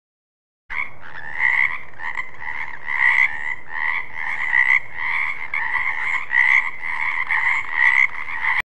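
Frog croaking in a continuous run of rapid pulses, swelling louder about every second and a half. It starts about a second in and cuts off suddenly near the end.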